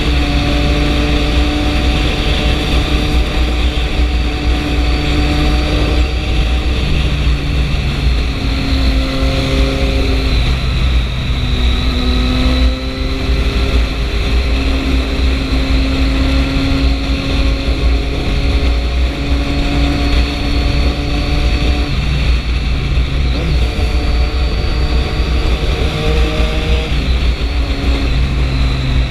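Triumph 675 motorcycle's three-cylinder engine running while riding, with wind rush; the engine note holds steady, then shifts to a new pitch several times as the revs change.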